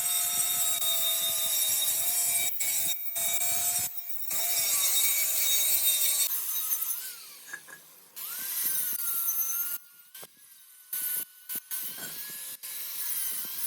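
Power tool working on a metal wheel rim: a steady whine over a rubbing, rasping noise that cuts off abruptly several times. In the second half the whine is higher-pitched and quieter, dipping and rising once.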